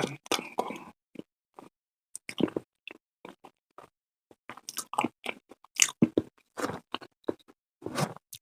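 Close-miked eating sounds: a person chewing and biting food, with irregular wet, squishy mouth noises and short clicks coming in uneven bursts with brief pauses between them.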